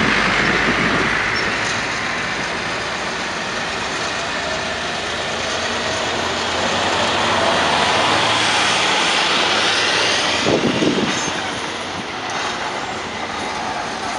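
Freight train of tank and covered hopper cars with a diesel switcher locomotive, a steady rumble of engine and rail noise, with a brief louder clatter about ten and a half seconds in.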